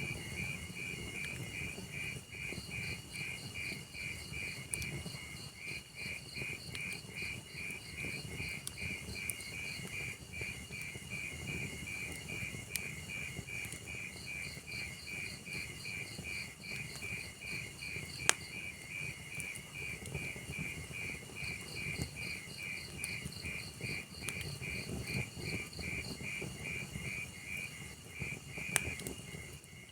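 Log fire crackling, with a steady run of rapid, evenly pulsed cricket chirps over it. A few sharp pops from the burning wood, the loudest about two-thirds of the way through and another near the end.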